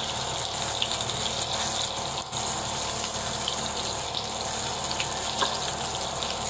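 Seekh kababs shallow-frying in oil in a kadai over a low flame: a steady sizzle with a few faint crackles of spattering oil.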